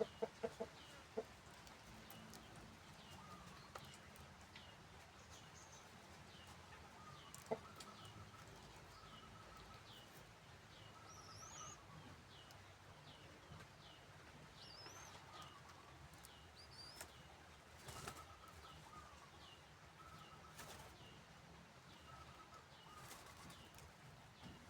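Faint background of small birds chirping, short high calls repeating about every half second, with a few sharp clicks in the first second.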